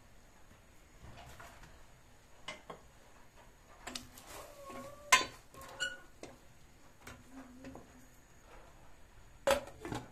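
Intermittent clicks, knocks and clinks of small hard objects being handled, with a few brief squeaks. The loudest knocks come about five seconds in and again near the end.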